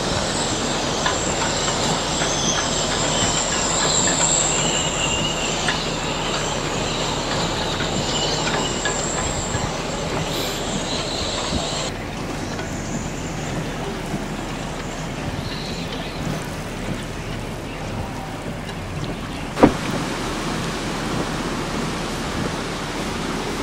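Steady rush of strong storm wind, with a thin high whistle through the first half. The sound changes abruptly about halfway through, and a single sharp click comes late on.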